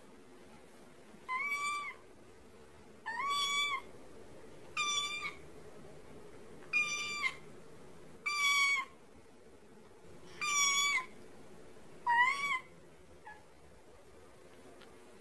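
A cat meowing seven times, about every two seconds. Each meow is short and high-pitched, and all have the same shape. A faint steady hum sits underneath.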